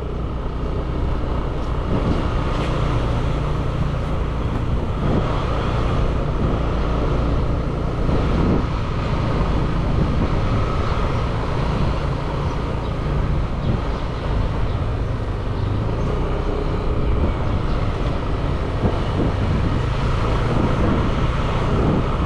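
Motorbike engine running steadily while riding, with road noise.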